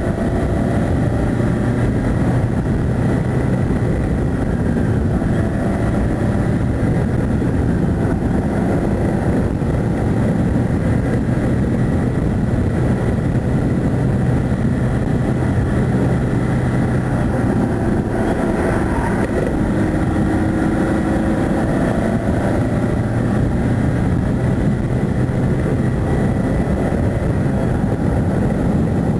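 Car engine running hard up a climb, its note rising and falling with the revs and briefly dipping a little past the middle, under steady wind and road roar.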